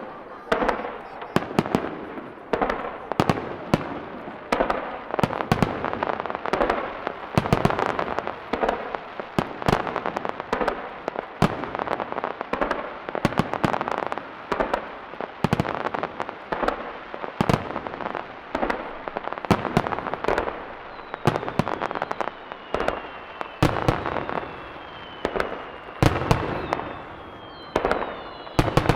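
A continuous barrage of aerial firework shells bursting, heard from about 300 m: sharp bangs in quick succession over a dense crackle. In the last several seconds, a few whistles fall in pitch.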